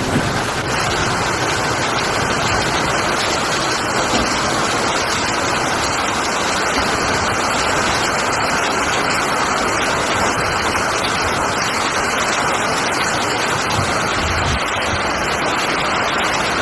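Torrential rain pouring down and splashing onto flooded ground, a dense, steady hiss.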